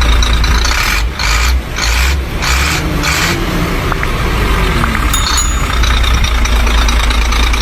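A heavy engine running loudly with a deep steady rumble. For the first three seconds the sound pulses about twice a second.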